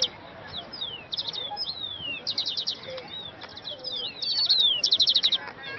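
Small songbirds singing: repeated short falling whistles mixed with rapid high trills, the trills loudest about two seconds in and again from about four and a half to five seconds.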